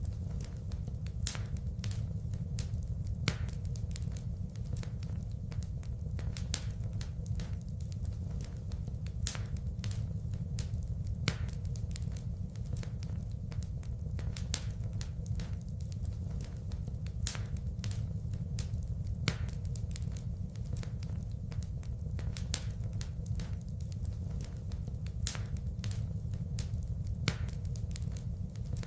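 Wood fire in a fireplace crackling: many irregular sharp pops and snaps, a few of them louder, over a steady low rumble of burning.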